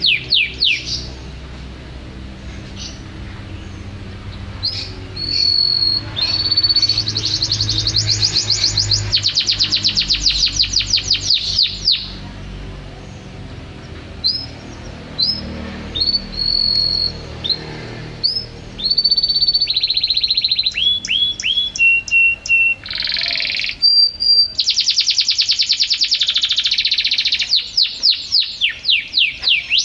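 A songbird singing a loud, varied song: fast trills of rapidly repeated downward-sweeping notes, broken by short clear whistled notes and brief pauses, then back into trills.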